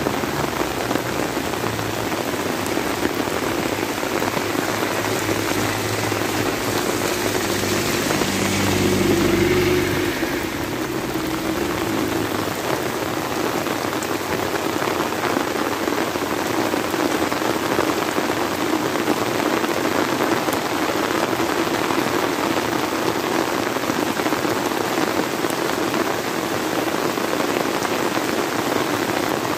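Heavy rain pouring steadily onto a wet lane and flooded rice paddies, a dense even hiss. Under it a low drone swells to its loudest about nine seconds in, then fades out by about twelve seconds.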